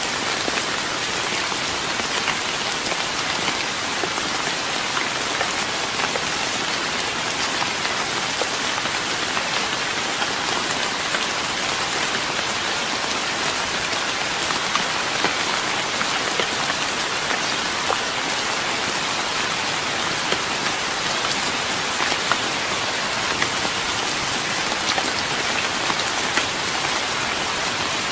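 Steady rain falling on a wooden deck, an even patter with scattered individual drops ticking.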